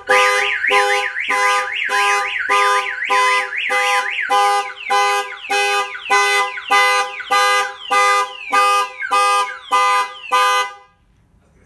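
Clifford aftermarket car alarm triggered by an opened door: its siren warbling fast up and down, later changing to repeated falling sweeps, while the Chevy Silverado's horn honks in pulses about one and a half times a second. It all cuts off sharply near the end.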